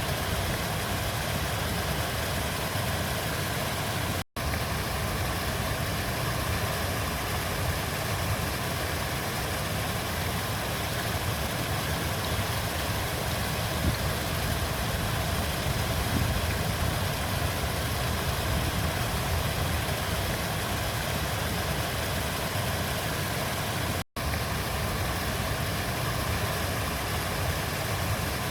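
River water flowing in a steady, continuous rush, fullest in the low range. It cuts to silence for an instant twice, about four seconds in and again about twenty-four seconds in.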